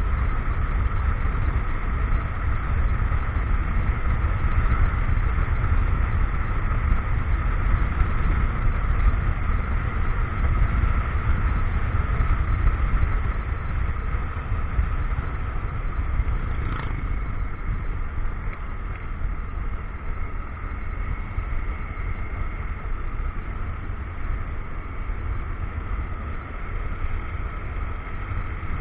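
Motorcycle engine running steadily on the move, with low wind rumble on the action camera's microphone. A single brief click comes about 17 seconds in, and the sound eases slightly after it.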